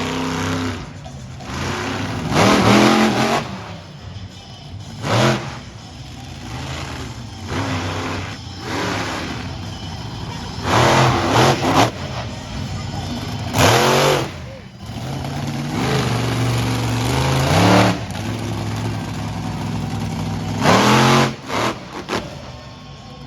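Monster truck engines revving hard in short repeated bursts, about six loud surges rising in pitch, with the engine running lower in between.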